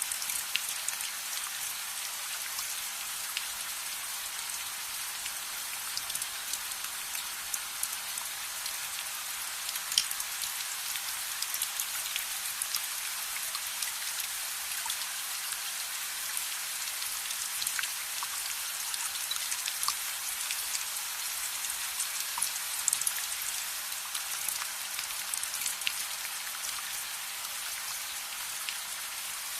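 Steady rain falling, an even hiss with scattered sharp ticks and drops throughout.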